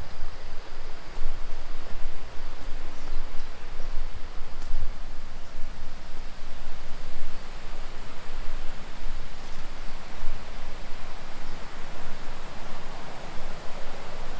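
Steady outdoor ambience: an even rushing hiss with a low rumble, and a faint steady high-pitched tone over it.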